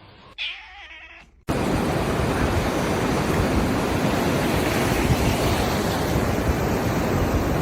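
A cat gives a short meow just after the start. About one and a half seconds in, it cuts to a loud, steady rushing noise that lasts to the end.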